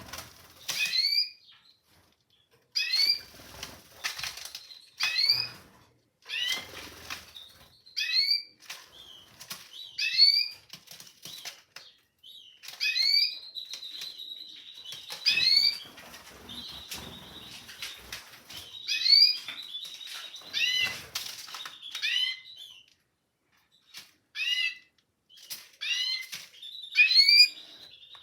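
Young canaries calling in short, hooked chirps, about one every second or two, with the flutter of flapping wings among them. Through the middle stretch a thin, steady high twitter runs under the calls.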